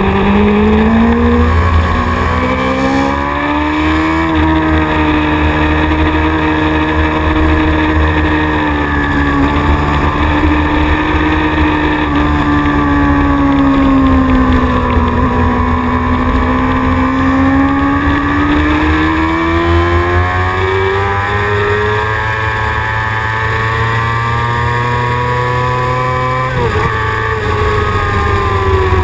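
Racing motorcycle engine at high revs, heard from an onboard camera on the bike with wind rush underneath. The engine note climbs and eases as the bike goes through corners and down a straight, breaks suddenly near the end and then falls in pitch.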